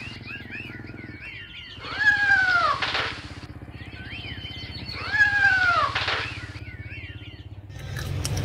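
Kitten meowing twice, about three seconds apart, each meow rising then falling in pitch. Quick high chirps fill the gaps, over a steady low hum, and a brief rush of noise comes near the end.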